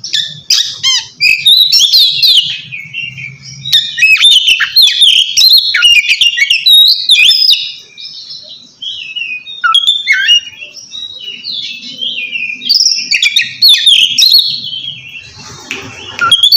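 Oriental magpie-robin (kacer) singing loud, clear 'ngeplong' song in quick, varied whistled phrases with slides up and down. This is the call of a bird challenging a rival. There are short lulls about halfway through.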